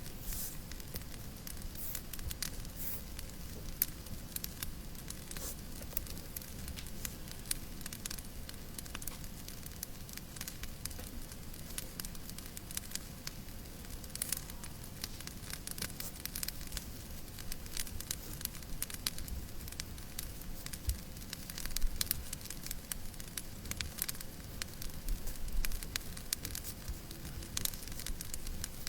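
Wood fire in a fireplace crackling: irregular small pops and snaps over a steady hiss, with one louder pop near the end.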